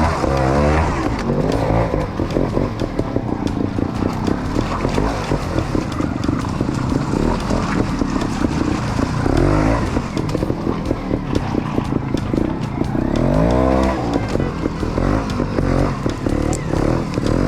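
GasGas trials motorbike engine, ridden and blipped, its revs rising and falling several times: near the start, about halfway through and again about three quarters of the way in.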